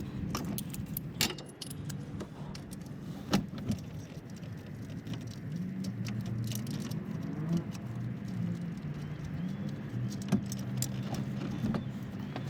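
Metal hand tools clinking and tapping as a part is unbolted from the engine: scattered sharp metallic clicks and a few louder knocks, over a low hum.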